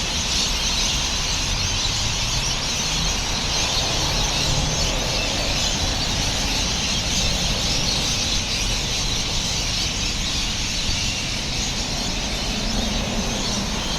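Many birds calling at once in a dense, continuous evening chorus, over a steady low rumble.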